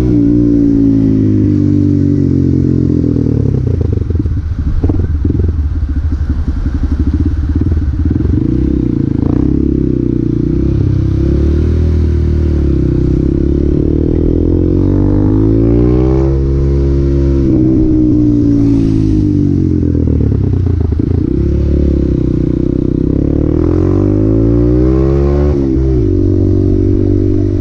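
Honda Grom (MSX125) 125 cc single-cylinder four-stroke engine under way, its revs climbing and dropping several times as the bike accelerates and slows through the gears. A rough, choppy stretch comes a few seconds in.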